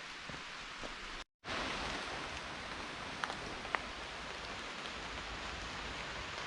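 Steady rain falling on rainforest foliage, with a few separate drips landing close by. The sound cuts out completely for a split second about a second in.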